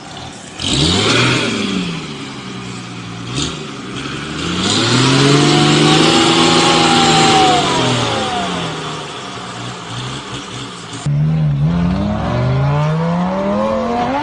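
Car engine revving: its pitch climbs, holds and falls away over several seconds, then after an abrupt change an engine revs up again with a steadily climbing pitch.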